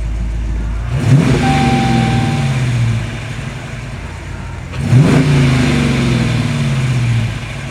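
A 5.7 Hemi V8 engine running and blipped twice, about four seconds apart: each time the revs shoot up quickly and then fall back slowly toward idle.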